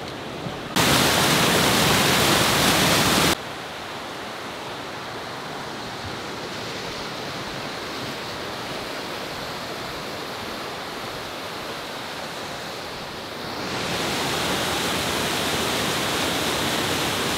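Rushing water of a creek, a steady hiss of whitewater. It jumps abruptly louder for about two and a half seconds near the start, drops back just as suddenly, then swells louder again about three-quarters of the way through.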